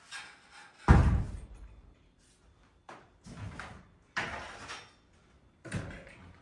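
A ladder being handled and set up: a series of knocks and clatters, the loudest bang about a second in, then four more spread through the rest.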